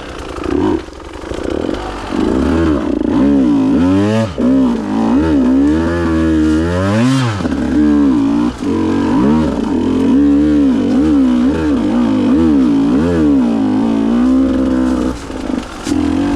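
KTM EXC 150 two-stroke enduro motorcycle engine revving up and down over and over as it is ridden along a trail, its pitch rising and falling every second or so with a few sharp high revs in the middle.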